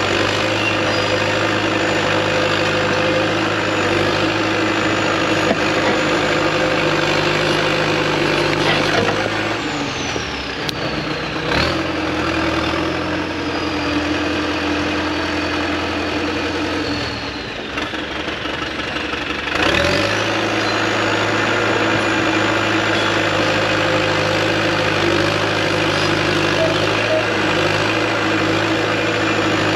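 Large excavator's diesel engine running steadily, dropping to a lower idle about a third of the way in and revving back up about ten seconds later, with a high whine that falls and rises along with the engine speed.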